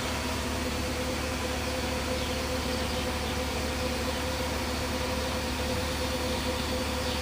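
BMW 540i's 4.4-litre V8 idling steadily through a loud aftermarket Magnaflow muffler, a constant low rumble with a steady hum above it.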